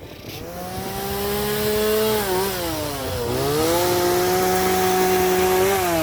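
A small engine running at high revs. It rises in pitch over the first couple of seconds, holds steady, and drops briefly and recovers twice.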